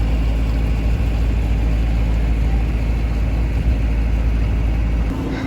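Tour boat's diesel engine running steadily, a deep even drone heard from on board, with a steady higher hum joining near the end.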